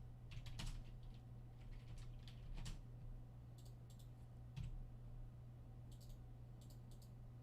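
Faint, irregular clicks of a computer mouse and keyboard, over a steady low hum.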